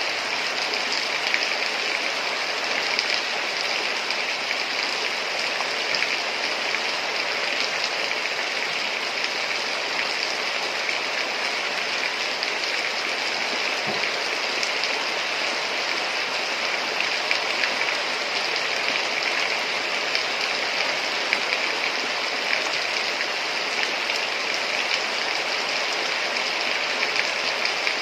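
Heavy rain falling steadily, a dense even hiss with small patters of louder drops.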